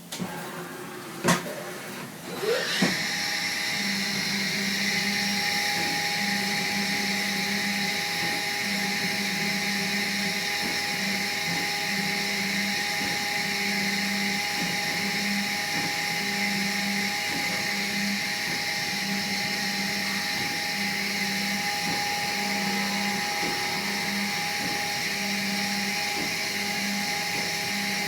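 A click, then a small motor starts with a whirr and runs steadily, with a low hum that pulses on and off about every second and a half.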